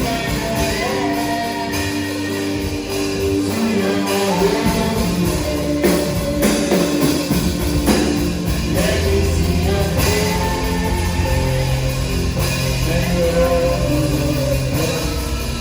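Live worship music: a band with guitar playing a sustained song, with singing voices over it.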